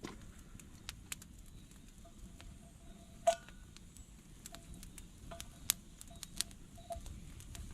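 Scattered sharp clicks and light knocks, about a dozen, the loudest about three seconds in; a few carry a brief ringing tone.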